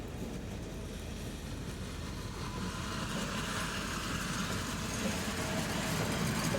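GM G22CU diesel-electric locomotive running, a steady diesel-engine rumble that grows louder from about halfway through.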